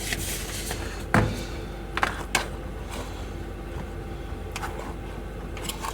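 A utensil knocking and scraping in a cooking pan: a few short knocks, the loudest about a second in, over a steady low hum.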